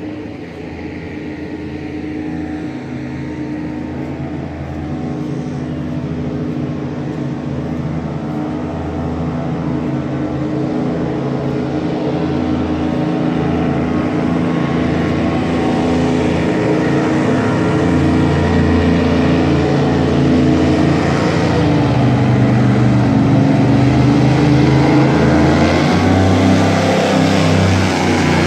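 An engine running and drawing steadily closer, growing louder throughout, with its pitch rising and falling several times near the end.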